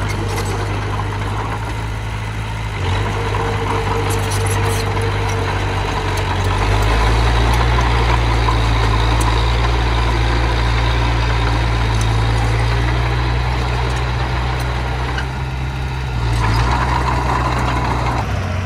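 Engine of a working construction machine running steadily, rising in level about seven seconds in, dipping briefly near sixteen seconds, then rising again.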